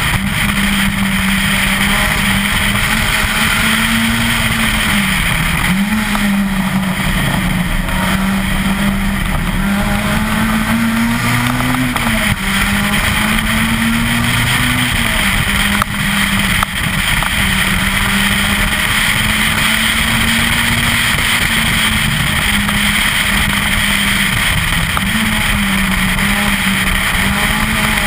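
Citroën Saxo VTS 16V rally car's 1.6-litre 16-valve four-cylinder engine revving high at speed. Its pitch dips and climbs back a few times, over a steady rush of road and wind noise.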